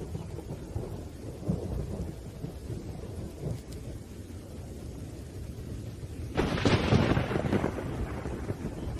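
Thunderstorm with rain: low rolling thunder rumbles, then a sharp, loud thunderclap breaks about six and a half seconds in and fades over a second or two.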